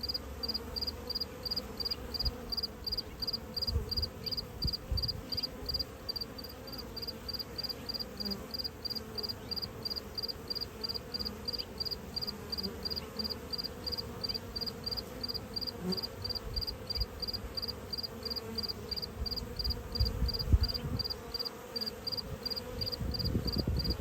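A cricket chirping steadily and close by, about three short high chirps a second, without a break. A few low rumbles come and go beneath it, strongest late on.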